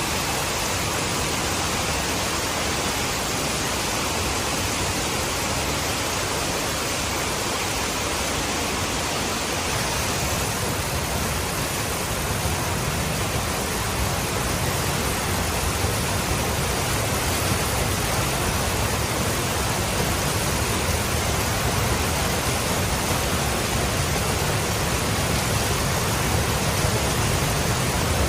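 Steady hiss of heavy rain, with a low, steady rumble joining about ten seconds in.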